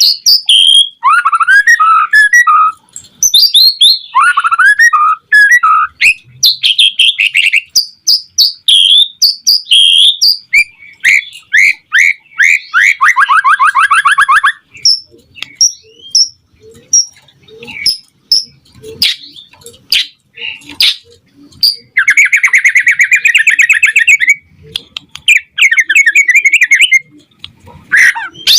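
White-rumped shama (murai batu) singing a long, varied song of loud whistled phrases, fast trills and sharp clicking notes, with short pauses between phrases. About two-thirds through comes a long, rapid, buzzy trill.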